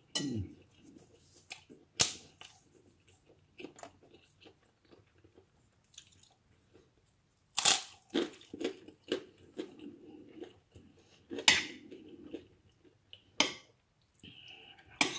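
Mouth chewing and crunching a crisp golden fried food with rice: several loud, sharp crunches stand out among softer, irregular chewing.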